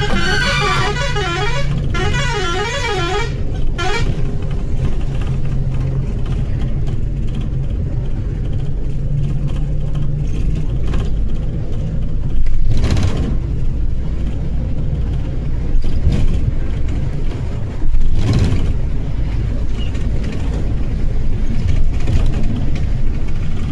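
Steady low rumble of a running motor vehicle. A pitched horn-like tone warbles up and down in the first few seconds, and two brief loud noisy bursts come later.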